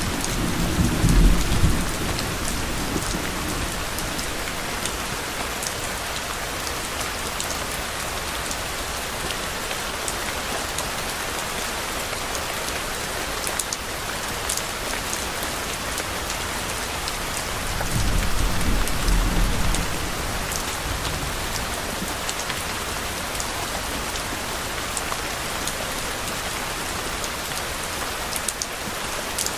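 Steady rain falling, with scattered close drop ticks, and low distant thunder rumbling twice: briefly just after the start and again about two-thirds of the way through.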